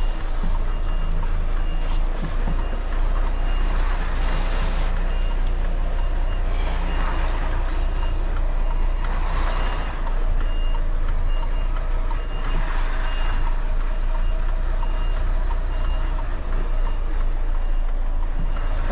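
Lorry reversing alarm beeping at a steady pace while the articulated truck backs up, over the diesel engine's low running heard from inside the cab. Several short bursts of hiss come and go.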